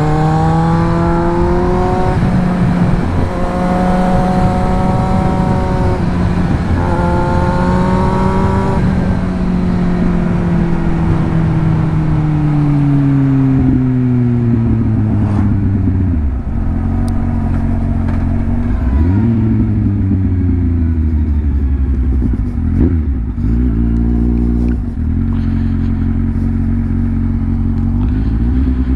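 Kawasaki Z1000 inline-four motorcycle engine pulling up through the gears, the pitch climbing and dropping back at each upshift, then winding down as the bike slows. A couple of quick dips and rises in pitch follow as it downshifts, and it settles to a low steady run near the end.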